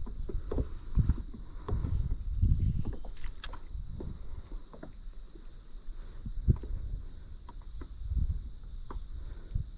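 Steady insect chorus, a high-pitched trill pulsing about four to five times a second, with occasional low knocks and thumps.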